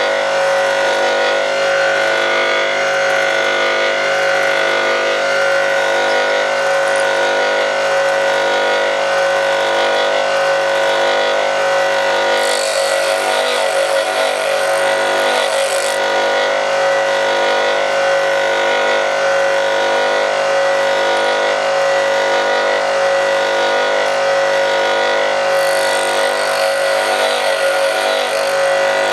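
Bench grinder running at steady speed with a constant multi-tone hum. Twice, for a few seconds each, a high hiss is added as a twist drill's cutting lip is lightly ground against the stone in a drill-sharpening jig.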